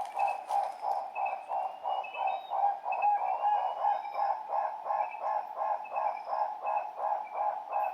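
Guinea turaco calling: a long, even series of low, hoarse croaks, about three a second, with fainter chirps of other birds above.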